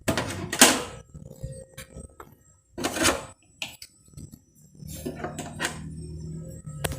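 Household handling noises: a few short knocks and clatters of containers and objects being moved, the loudest near the start and about three seconds in, then a steadier low hum with a sharp click near the end.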